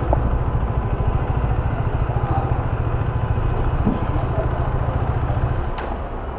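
Motorcycle engine running steadily while riding, with road and wind noise; the engine eases off slightly near the end.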